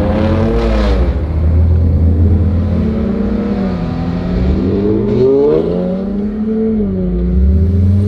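Car engines revving and accelerating, their pitch climbing and dropping back several times over a steady low rumble.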